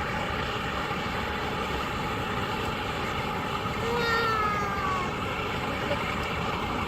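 Rocket stoves burning wood and pellets give a steady rushing noise throughout. About four seconds in comes a single high call that falls in pitch over about a second.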